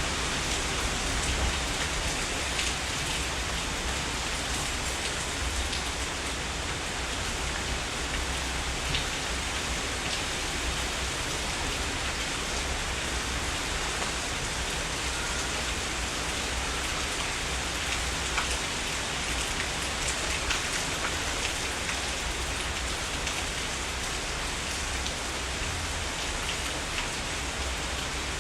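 Heavy rain falling steadily, a dense even hiss with scattered individual drops ticking through it and a steady low rumble underneath.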